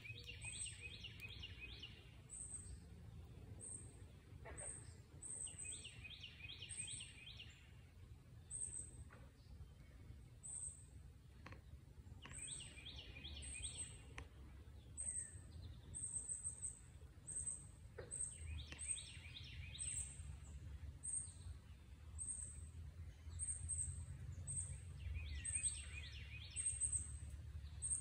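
Birds singing: a thin, very high note repeated about once a second, and every six seconds or so a short, rapid trilled phrase lower down. A low rumble sits underneath.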